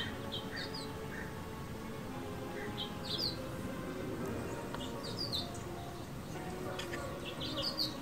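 A small bird chirping in short clusters of two to four quick, high, falling notes, about four times, over soft background music.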